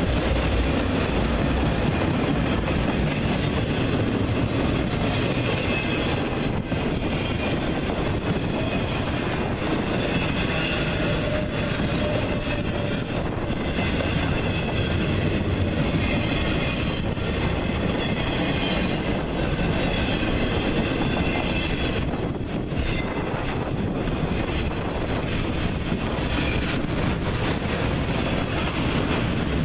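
A train's cars rolling past, wheels clacking over rail joints in a steady, continuous rumble, with a faint high wheel squeal in the middle stretch.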